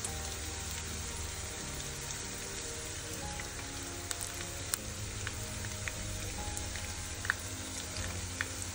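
Chicken pieces shallow-frying in hot oil with curry leaves in a nonstick pan: a steady sizzle with a few sharp pops and crackles now and then. The chicken is fried through and being lifted out.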